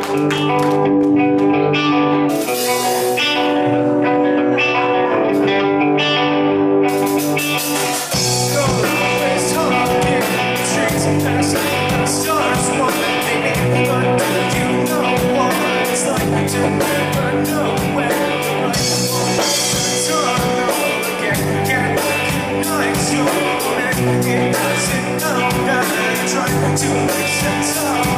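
Live rock band playing, poorly recorded: a guitar opening, then drums and bass come in about seven or eight seconds in and the full band plays on.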